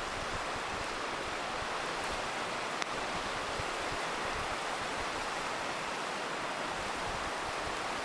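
River rushing steadily, with a few faint campfire crackles and one sharper pop about three seconds in.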